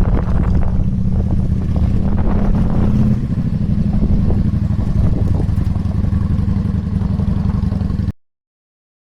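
Yamaha V Star 650's air-cooled V-twin engine running under way, loud and steady; its note eases slightly about three seconds in, and the sound cuts off suddenly near the end.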